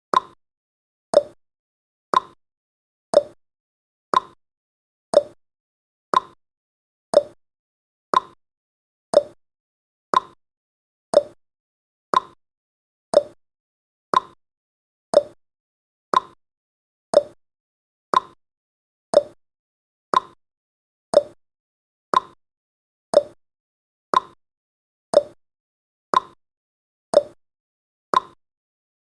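Clock tick-tock sound effect marking each second of a countdown timer: one short sharp tick a second, alternating between a higher and a lower pitch.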